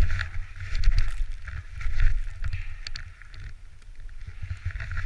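Wind buffeting the microphone in a low, uneven rumble, with irregular crunching or rustling about twice a second.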